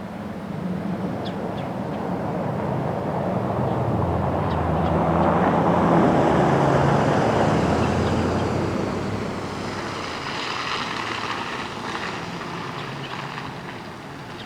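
A passing engine: a low droning that builds to its loudest about six seconds in and then slowly fades. A few faint short bird calls sound over it.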